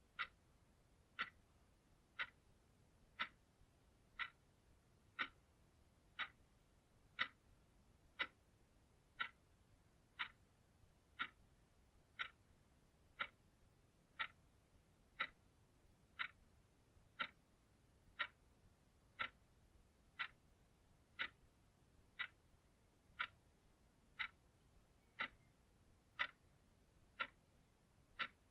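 Clock ticking steadily, one crisp tick each second.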